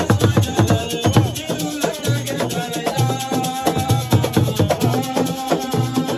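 Live Senegalese assiko music: drums beaten in a fast, dense rhythm with rattles shaking, and a voice singing over it.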